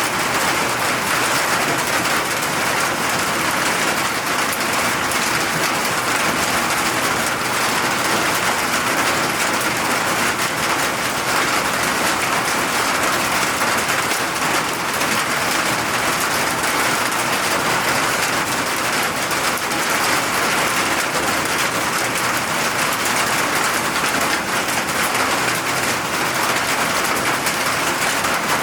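Steady rain falling and pattering on surfaces, a constant even hiss with no let-up.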